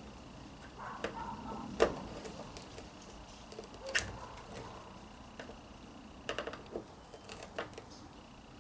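Scattered clicks and knocks of hard plastic vacuum-cleaner parts being handled while the brush roll is worked on, with a sharper knock about two seconds in, another near four seconds, and a quick cluster near the end.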